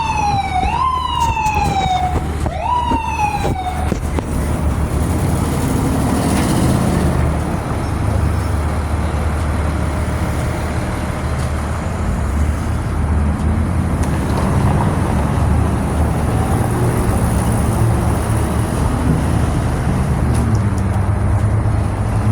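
A siren-like tone that jumps up and slides down in pitch three times in the first few seconds, over the steady low rumble of a dump truck's engine and road noise, which then runs on alone.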